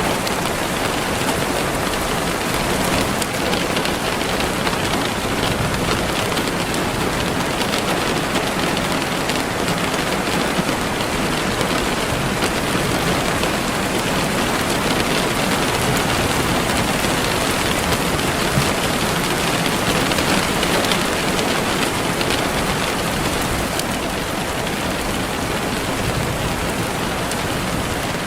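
Steady rain falling on a surface, an even hiss that runs on without a break.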